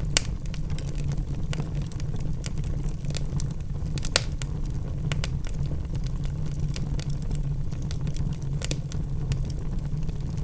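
Wood fire burning in a fireplace: a steady low rumble of flame with irregular sharp crackles and pops from the logs, the loudest pops just after the start and about four seconds in.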